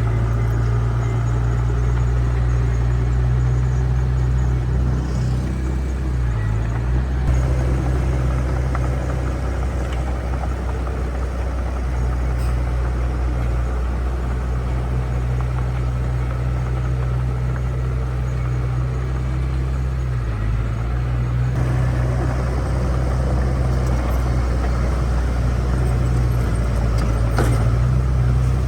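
Heavy diesel engine of earthmoving equipment running steadily with a deep drone, with slight dips in pitch around 6 and 20 seconds in.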